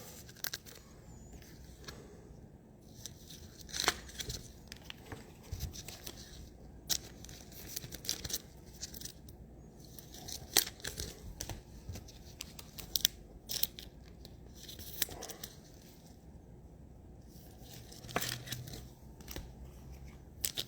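Trading-card packs from a blaster box being torn open and handled: irregular sharp tearing and crinkling of the wrappers, with scattered clicks.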